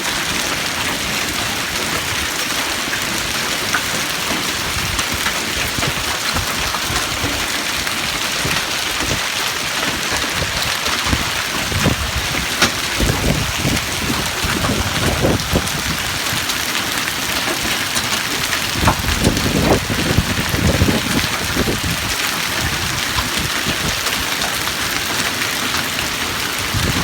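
Hail and heavy rain pelting down in a steady loud hiss, with heavier hailstones striking hard surfaces in scattered sharp knocks and a run of louder thuds through the middle.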